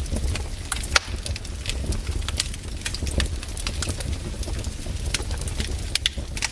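Wood campfire crackling: irregular sharp pops and snaps, several a second, with one louder crack about a second in, over a steady low rumble of the burning fire.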